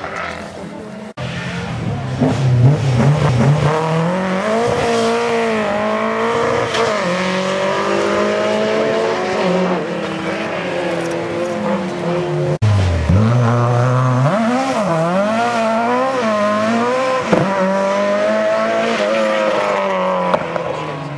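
Rally car engines revving hard, the pitch climbing and dropping again and again through gear changes and braking. The sound breaks off abruptly about a second in and again about twelve seconds in, each time followed by another stretch of hard-driven engine.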